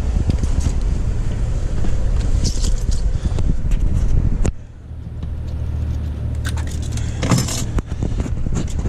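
Chevrolet Tahoe's 6.2-litre V8 running with a steady low hum, with scattered clicks and rattles over it. The sound drops out abruptly about halfway through, then the engine hum comes back.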